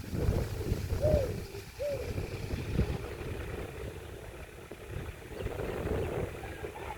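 Sonalika tractor engine running, a low uneven rumble. About one and two seconds in, two short rising-and-falling calls sound over it.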